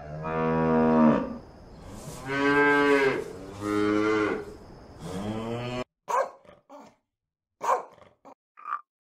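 A calf mooing four times in long calls. About six seconds in the sound cuts abruptly to a small terrier yapping in short barks.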